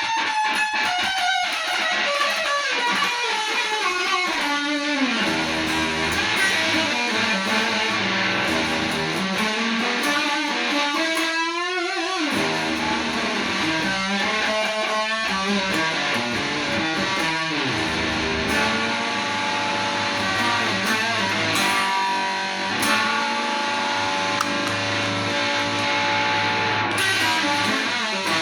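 Electric guitar playing a blues-rock solo, with long gliding, bent notes and wide vibrato, and sustained held notes later on.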